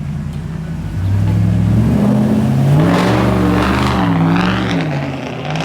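A car engine accelerating hard: its note climbs about a second in, rises and dips a few times through the middle, then eases off near the end.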